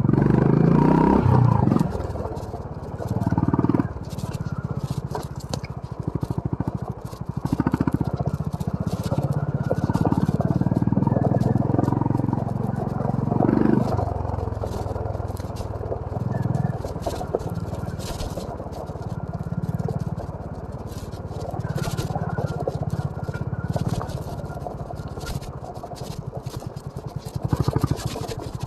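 Honda CB350 RS single-cylinder engine running at low revs, the throttle opened and closed several times, rising in pitch near the start. Frequent short clicks and rattles sound over it.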